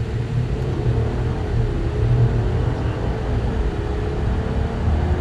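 Jeep Wagoneer's standard-output Hurricane twin-turbo 3.0-litre inline-six under hard acceleration in a 0–60 run, a steady low engine and road drone with a faint wavering tone above it.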